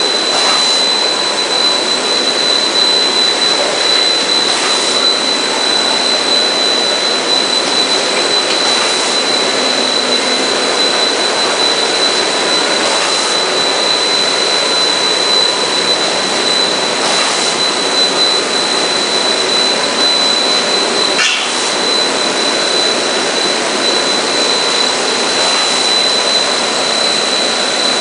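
Factory machinery of a PVC refrigerator door-gasket extrusion line running: a steady loud hiss with a constant high whine, and a short surge of hiss about every four seconds as the line cycles.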